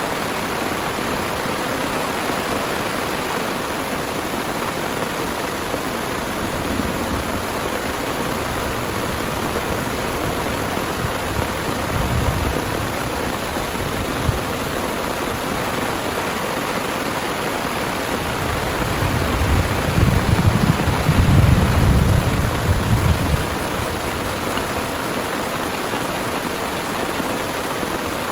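Heavy rain pouring steadily. A short low rumble of thunder comes about 12 seconds in, and a longer, louder one rolls through around 20 seconds in.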